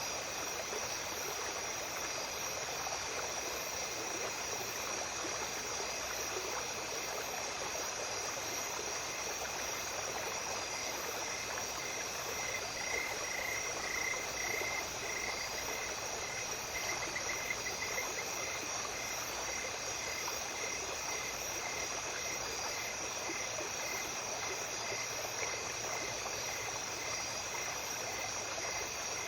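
Small stream flowing at night with insects trilling steadily. From about a third of the way in, an animal calls in a regular series of short notes. The calls are loudest and come in a quick run around the middle.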